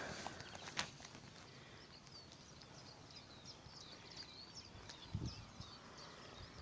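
Faint birdsong: many short, quick high chirps and trills. A sharp click comes under a second in, and another click and a low thump come about five seconds in.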